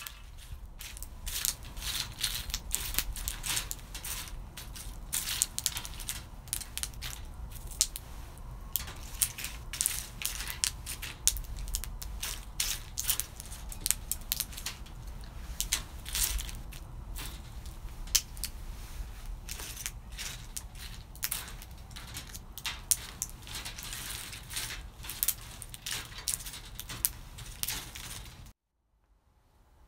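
Roasted beans cracking, with a dense, irregular run of sharp crackles and crunches that stops abruptly near the end.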